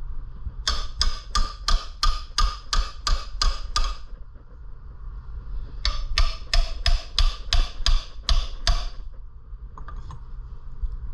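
Hammer striking metal in two quick runs of blows, about three a second, the first of about ten and the second of about nine, each blow ringing metallically. The blows are an attempt to knock loose the stuck flywheel of a Predator 212cc engine.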